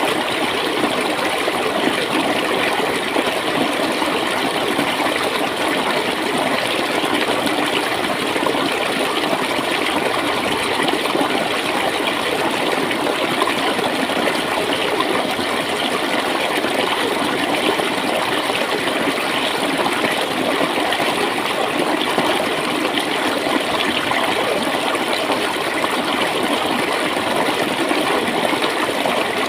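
Shallow stream of clear water flowing and gurgling steadily, with no change in level.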